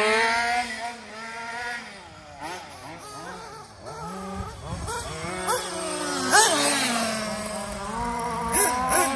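Nova X5B nitro engine in a Kyosho MP10 buggy running on its first start-up, idling with a wavering, uneven note. It gives quick throttle blips that send the pitch sharply up, one about two-thirds of the way through and another near the end.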